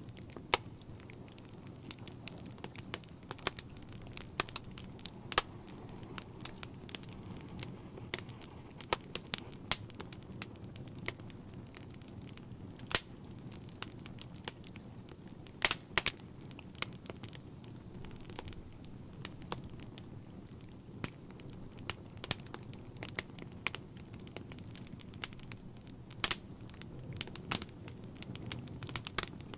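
Wood fire in a fireplace crackling: irregular sharp pops and snaps over a steady low rush of the flames.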